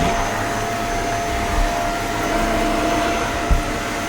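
Shark stick vacuum running steadily on its high power setting, its motor whine held at one pitch, with its brush head on stair carpet. There is a brief low bump about three and a half seconds in.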